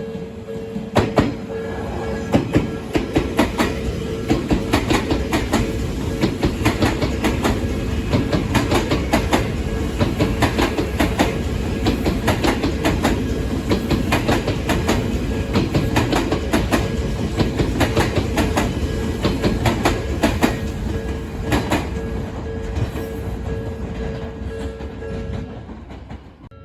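A train passing over a level crossing, its wheels clacking over the rail joints in a fast, uneven run of clicks that fades near the end. The crossing's warning bell rings steadily over it and stops shortly before the end.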